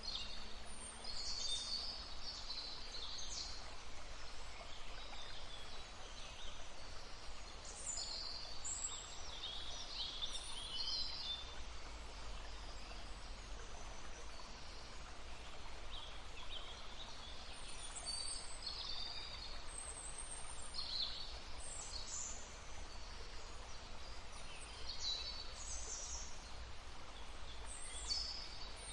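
Small songbirds chirping and calling in short, high-pitched phrases over the steady rush of a babbling brook.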